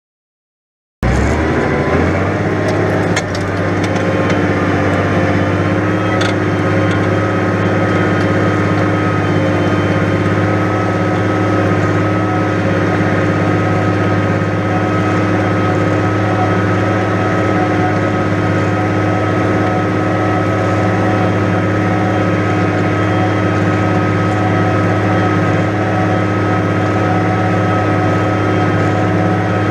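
New Holland 100-90 tractor's diesel engine running steadily while pulling a plough, cutting in suddenly about a second in, with a couple of faint clicks a few seconds later.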